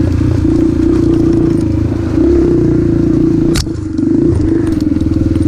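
Yamaha TT-R125 dirt bike's single-cylinder four-stroke engine running at a steady throttle. About three and a half seconds in there is a sharp click, and the engine note dips briefly before picking up again.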